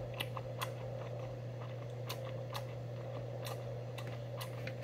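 Close-up eating sounds: chewing with small irregular mouth clicks and smacks, over a steady low hum.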